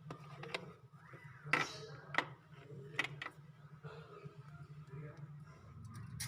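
Several sharp metallic clinks and knocks from hand work on a refrigerator, the loudest about one and a half and two seconds in and another near the end, over a steady low hum.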